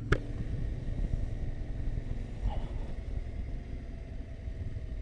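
Yamaha Ténéré 700's parallel-twin engine running steadily under way, with wind and road rumble. A short click sounds just after the start.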